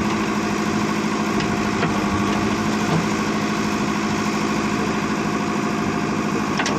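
Tractor diesel engine running steadily at a constant speed, with a few faint clicks near the end.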